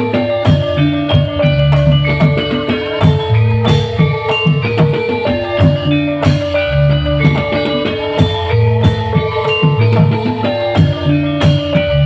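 Live band playing instrumental music: drums keeping the beat under bass and plucked string instruments.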